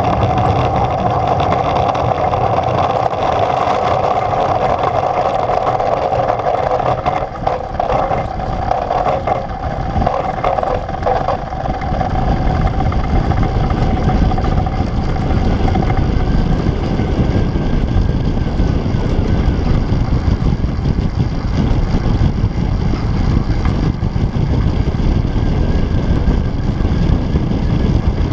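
Onboard a human-powered aircraft on its take-off run and flight: a steady whirring hum that fades out about twelve to sixteen seconds in, while a low rumble of rushing air on the microphone grows and takes over.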